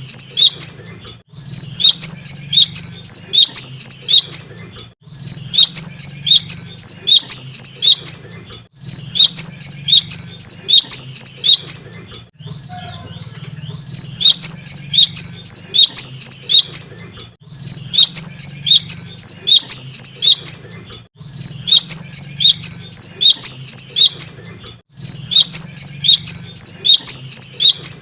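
Cinereous tit (gelatik batu) singing in bursts of quick, high repeated notes. Each phrase lasts about three seconds and is followed by a short pause, with a longer pause about halfway through.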